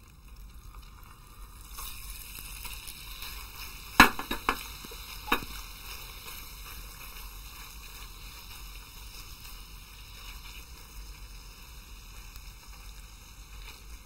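Cubed raw chicken sizzling in hot ghee in a non-stick frying pan, a steady hiss that starts about two seconds in and carries on while it is stirred with a silicone spatula. Three sharp knocks against the pan about four to five and a half seconds in are the loudest sounds.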